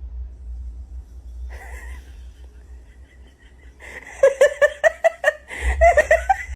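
A person laughing in quick repeated bursts, starting about four seconds in, over a low rumble.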